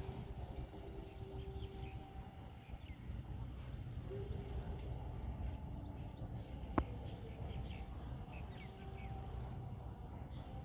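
Small birds chirping faintly over a steady low rumble, with a single sharp click about seven seconds in.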